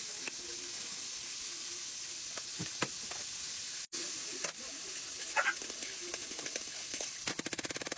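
Pork chops frying in oil in a skillet, a steady sizzle. A few sharp clinks of a utensil against a pot come through it, and a fast run of ticks near the end.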